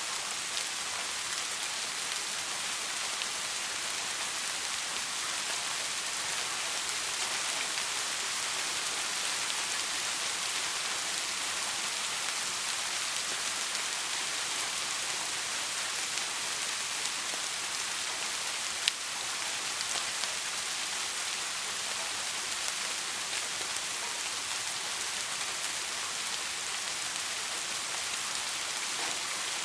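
Steady soft rain falling, an even hiss of many drops. One sharp click stands out about two-thirds of the way through.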